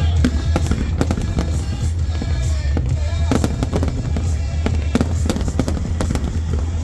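Fireworks going off in quick succession, many sharp bangs and crackles, over music and a steady deep rumble.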